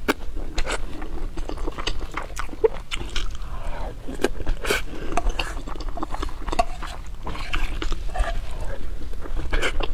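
Close-miked eating: wet chewing and lip smacking over mouthfuls of rice, in many short, irregular clicks.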